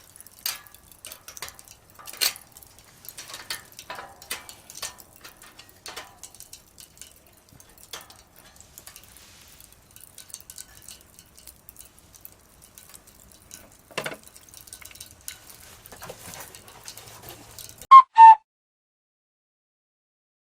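Wood fire crackling in a small fire pit: irregular snaps and pops, busiest in the first few seconds and again around 14 to 17 s. Near the end two loud, short pitched tones sound in quick succession, then the sound cuts out to silence.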